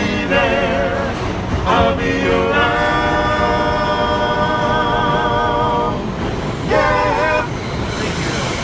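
Voices singing a cappella in harmony, holding one long chord with vibrato for a few seconds and then a short closing phrase, over the steady rumble of a subway train running.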